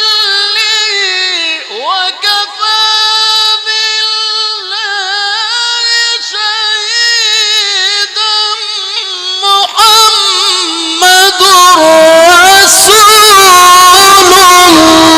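A male Quran reciter's voice in the ornamented mujawwad style, drawing out long held notes that waver and slide in pitch, carried through a sound system. It swells louder and fuller in the last few seconds.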